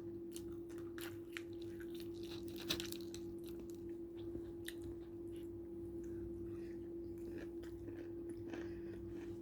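A person chewing food close to the microphone, with scattered small clicks and mouth noises, over a steady low hum.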